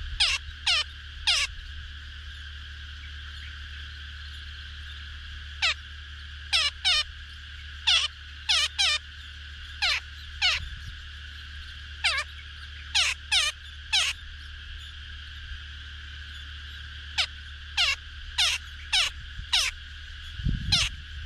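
Short animal calls, each falling steeply in pitch, repeated in quick clusters of two to four every few seconds. They sound over a steady high drone like insects.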